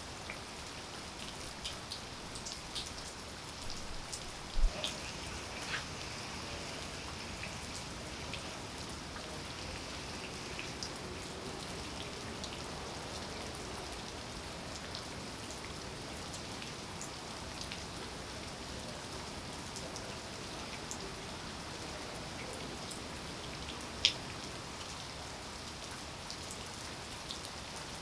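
Steady rain falling, an even hiss with scattered sharp drops striking close by, two of them much louder than the rest.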